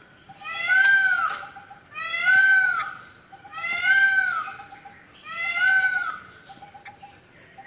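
Red-vented bulbul calling over and over: four harsh calls about a second and a half apart, each with a brief rise and fall in pitch.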